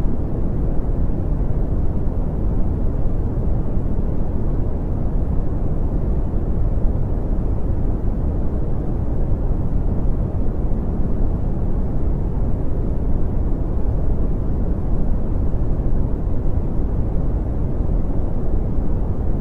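Steady brown noise: a constant deep rushing hiss, strongest in the bass and falling away toward the treble, with no change or events.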